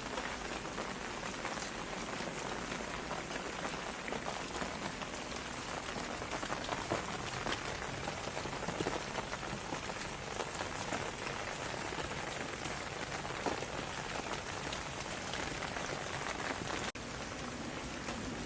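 Steady rain falling on a surface: an even hiss with many separate drop hits. The sound cuts out for an instant near the end, then carries on.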